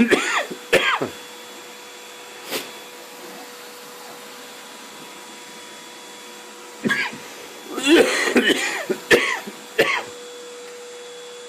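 Vacuum cleaner running steadily with a hum and a faint whining tone. Over it come short wordless vocal sounds from a person, at the start and again about seven to ten seconds in, along with a few sharp knocks.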